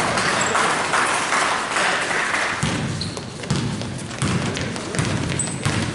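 Basketball being dribbled on a hardwood gym floor: steady bounces a little more than one a second start about halfway through. Short high sneaker squeaks come and go.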